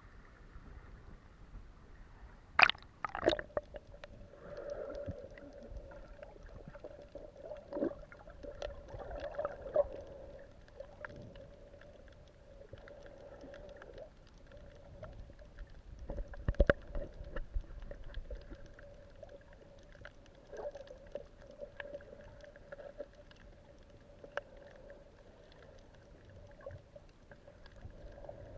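Underwater ambience picked up by a camera under water: a steady hum with scattered clicks and bubbly gurgles. There are a few louder knocks and splashes about three seconds in and again around seventeen seconds.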